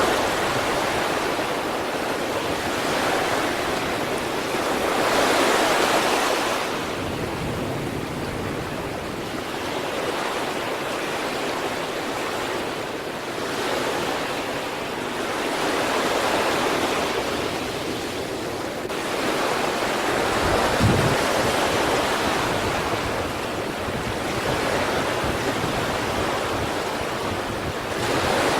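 East Sea surf washing onto the shore: a continuous rush of breaking waves that swells and eases every few seconds. A brief low thump comes about two-thirds of the way through.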